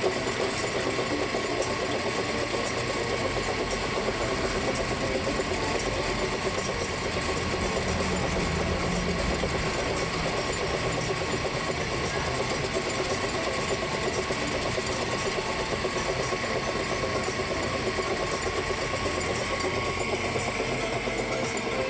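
Air-cooled engine running steadily at idle.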